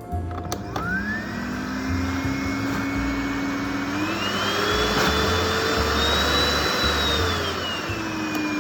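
Maximus 700 W dry vacuum cleaner switched on with a click, its motor whining up to speed over a loud rush of air. The pitch steps higher about four seconds in, then drops back near the end.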